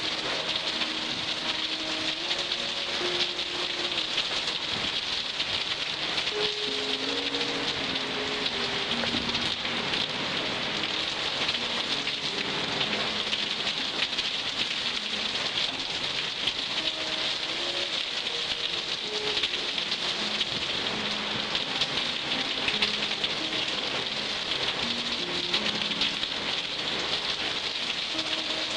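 Rainstorm: rain falling steadily onto surfaces, a dense even hiss of drops that holds level throughout.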